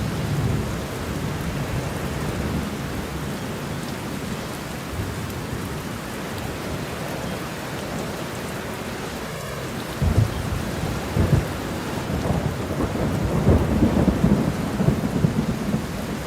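Steady rain falling, with thunder rumbling: a low rumble at the start, then rolling thunder from about ten seconds in, building to its loudest near the end.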